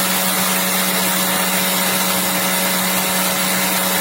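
Conair 1875-watt 3-in-1 styling hair dryer running on high: a steady, loud rush of air over a steady motor hum. The owner says this unit overheats and its motor cuts itself off on high.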